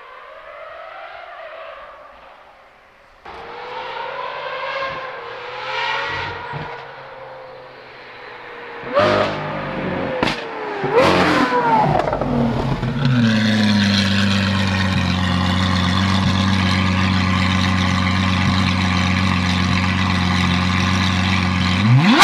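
Lamborghini Aventador SVJ's V12 through a Gintani exhaust, revving up and down as the car approaches and getting louder. About nine to eleven seconds in there are three sharp exhaust cracks amid quick revs. For the second half the engine idles steadily and deeply, and the revs climb sharply right at the end.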